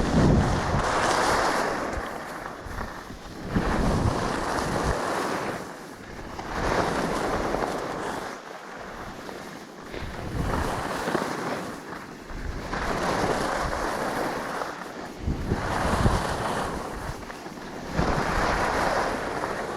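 Skis hissing and scraping over snow in a steady run of turns, a swell of noise about every two and a half to three seconds, with wind buffeting the microphone.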